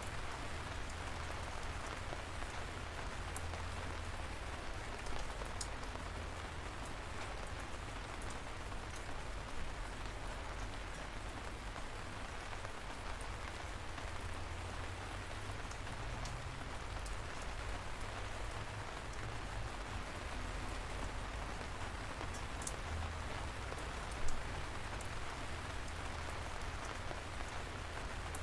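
Light rain falling steadily: an even hiss of drizzle with scattered individual drops ticking, over a steady low rumble. One drop lands louder about 24 seconds in.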